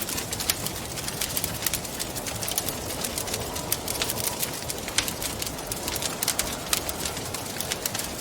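Wood fire crackling, with irregular sharp pops and snaps several times a second, over a steady rushing of wind.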